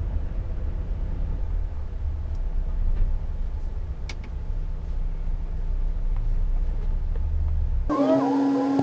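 Steady low rumble of a Volvo truck's engine and road noise heard from inside the cab while driving. Near the end, for about a second, the rumble drops away and a steady humming tone with a few brief gliding sounds cuts in.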